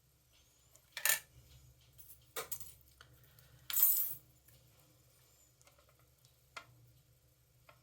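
A handful of sharp clacks of hard plastic die-cutting plates and a metal die being handled and knocked together, the loudest and longest about four seconds in.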